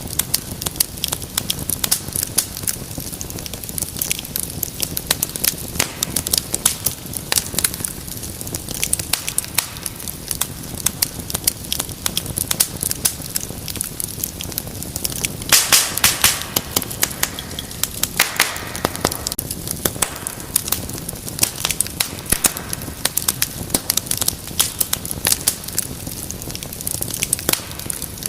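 Wood fire crackling in a fireplace: dense, irregular pops and snaps over a low rumble of flame, with a louder flurry of pops about halfway through and a brief hiss just after.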